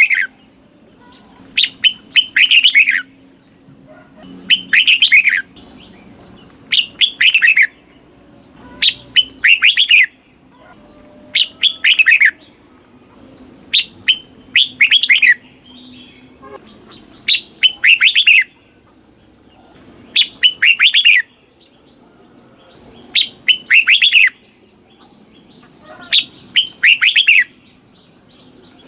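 Red-whiskered bulbul singing. Short, loud phrases of quick falling notes, repeated every two to three seconds.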